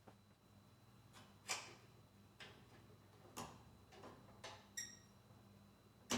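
Faint, irregular clicks and light metallic clinks of hand tools and parts during lawn mower repair work, about seven in all. One, near the five-second mark, rings briefly like struck metal, and the loudest comes near the end. A low steady hum runs underneath.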